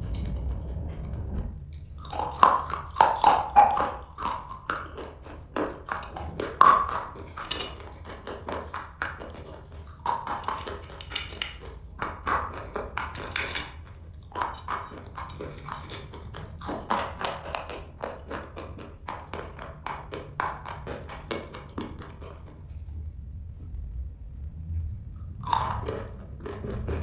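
Someone biting and chewing dry chalk pieces, a dense run of crisp crunches in bouts. The crunching pauses for a few seconds near the end, then starts again.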